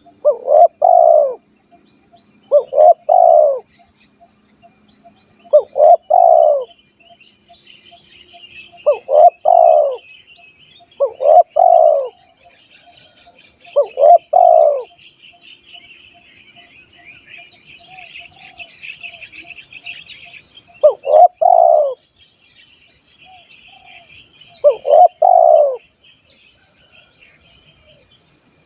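Spotted dove (tekukur) cooing: eight short phrases of about a second each, with a longer pause in the middle. A steady high-pitched whine and faint chirping run behind the calls.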